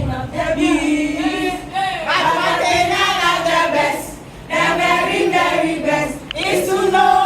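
A group of voices singing a Sunday School action song together, with little or no instrumental backing, pausing briefly about four seconds in.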